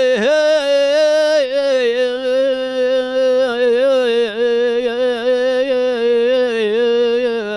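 A solo voice singing one long, drawn-out melismatic note on a vowel, wavering in small turns of pitch, with no instruments heard.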